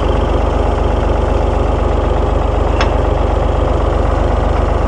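Ford 3000 tractor's three-cylinder engine idling steadily, with one sharp click about three seconds in.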